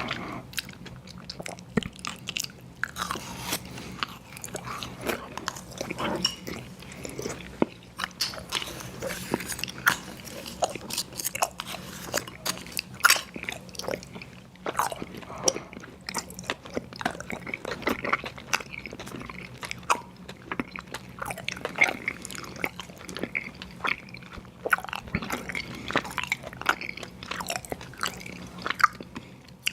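Close-miked chewing of sour gummy worms cereal, a steady run of irregular crisp crunches and bites.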